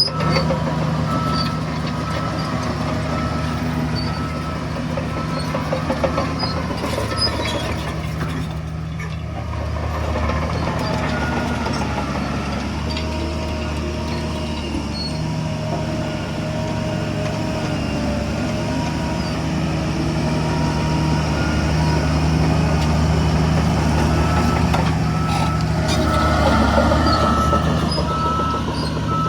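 Heavy diesel earthmoving machinery (bulldozer and dump trucks) running steadily, with a reversing alarm beeping evenly in the first few seconds and again near the end.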